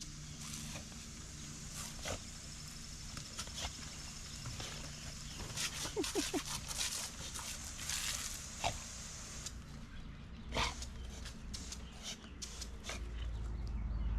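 A dog playing with water, giving a couple of short yips about six seconds in among scattered splashing and tapping; a low rumble rises near the end.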